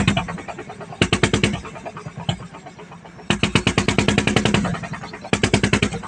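Single-cylinder diesel engine of a wooden klotok boat running with rapid, loud exhaust beats. It is opened up in bursts: about a second in, for over a second from about three seconds in, and briefly near the end, dropping back to a quieter chugging in between.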